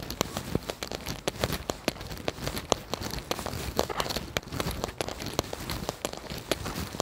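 Rain falling, with dense, irregular drops ticking sharply close to the microphone over a steady wash of rain.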